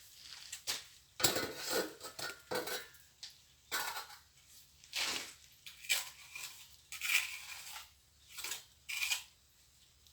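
Steel plastering trowel scraping and clinking against mortar and its board or bucket in about eight irregular strokes, some with a short metallic ring.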